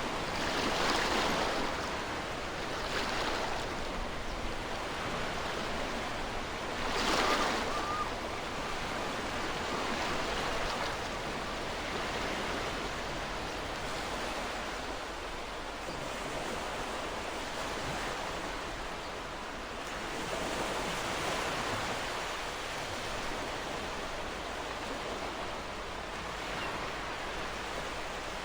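Ocean surf washing on a shore: a steady rush of water with waves swelling and breaking every few seconds, the strongest about seven seconds in.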